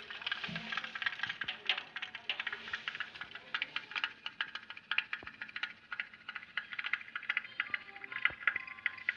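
Pop-pop steam boat running, its candle-heated boiler and diaphragm giving a fast, irregular run of sharp ticking pops.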